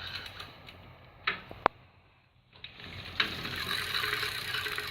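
Bicycle parts being handled: two sharp clicks, then about three seconds in a sudden, steady mechanical rattle starts up.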